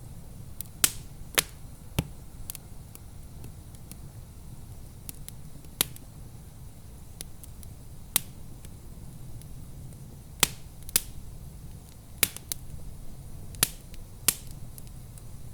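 Wood fire crackling in a fireplace: about ten sharp, irregular pops and snaps over a steady low rumble.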